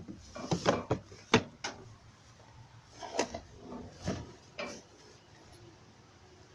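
A string of about nine knocks, clunks and clatters of hard objects being handled and moved about, the sharpest about a second and a half in, dying away after about five seconds.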